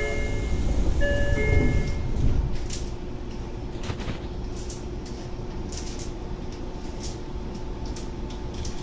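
Tokyo Metro 03 series door chime ringing its two-note tone twice as the doors close, with a low rumble from the closing doors about two seconds in. After that the stopped train gives a steady hum with occasional clicks.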